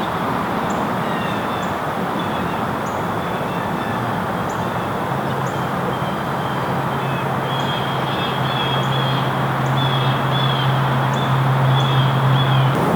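Outdoor ambience: a steady rushing background with small birds chirping and ticking. A low steady hum, like a passing vehicle's engine, comes in about five seconds in, grows louder and stops abruptly near the end.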